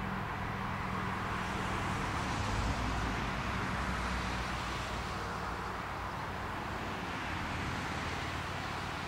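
Electric train passing, a steady rolling rush with a low hum that swells about two to three seconds in and then slowly eases off.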